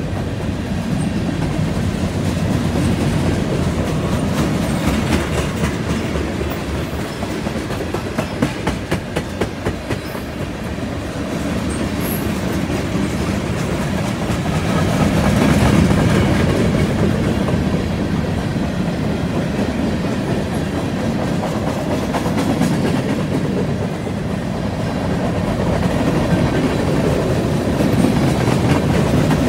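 Freight train cars rolling past at track side: a steady rumble of steel wheels on rail with the clickety-clack of wheels crossing rail joints, including a quick run of evenly spaced clacks about eight to ten seconds in.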